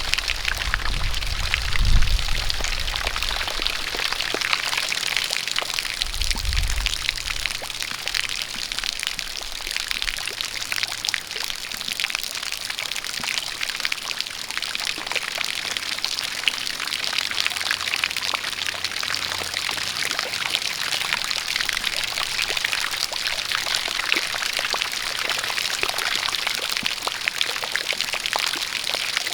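Steady rain with a spout of water pouring, a dense hiss of drops and splashing. A low rumble comes twice in the first seven seconds or so.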